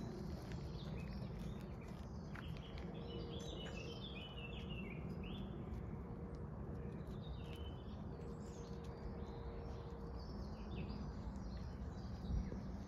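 Small birds chirping and twittering over a steady low rumble of outdoor background noise, with a short bump near the end.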